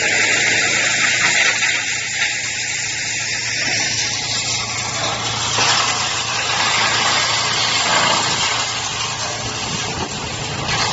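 Drum wood chipper running and chipping wood waste: a steady machine hum under a loud, continuous rushing noise.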